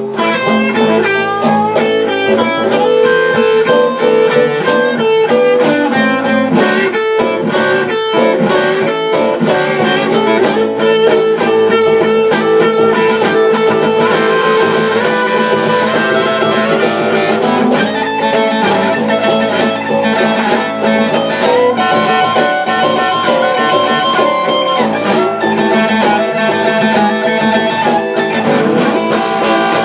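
Blues guitar played live, a steady instrumental passage with picked notes and no singing.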